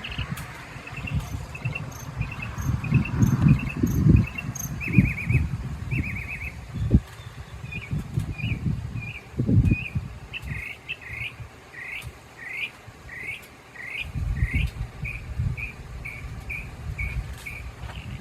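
Northern mockingbird singing, cycling through different phrases and repeating each several times: short chirps, then buzzy trills, then a run of rising upswept notes, then quick short notes. Irregular low rumbles sound underneath and are louder than the song.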